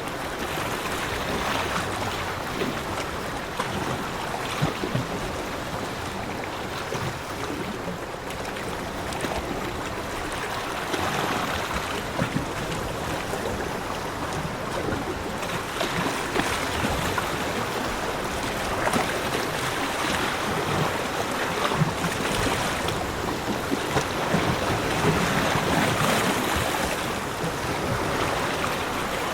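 Sea waves washing onto a beach: a continuous wash of surf that swells and eases every few seconds.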